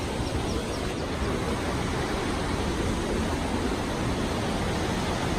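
Krka River waterfall: a steady, even rush of falling water heard up close.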